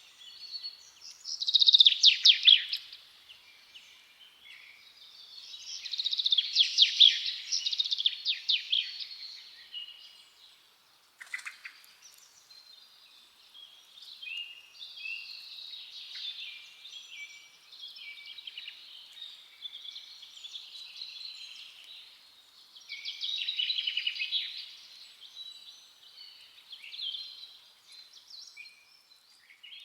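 Forest songbirds singing: phrases of rapid chirps and trills, loudest about two, seven and twenty-four seconds in, with softer song between them. A single sharp click about eleven seconds in.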